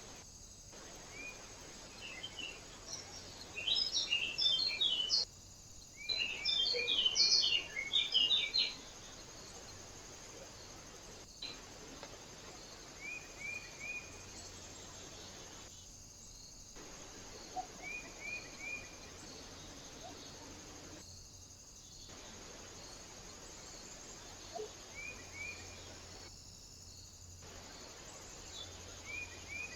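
Small birds chirping: a busy burst of quick chirps about four to nine seconds in, then short runs of three or four quick chirps every few seconds. A steady hiss lies underneath, and it cuts out briefly several times.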